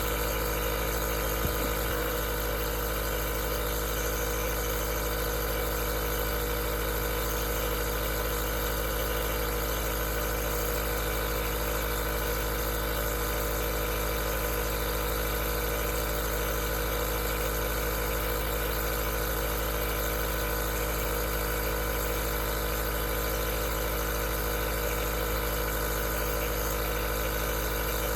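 Aerosol nebulizer running with a steady mechanical hum, unchanging throughout.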